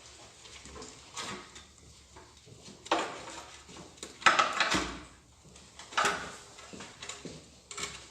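Engine parts being handled during a teardown: a run of separate clunks and rattles, about five over the stretch, the loudest near the middle.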